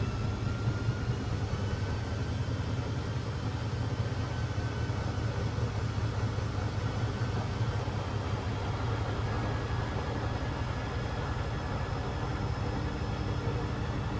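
A Beko WMB 71643 PTE washing machine running: a steady low rumble from the drum, with a faint whine from its brushed motor that slowly rises in pitch.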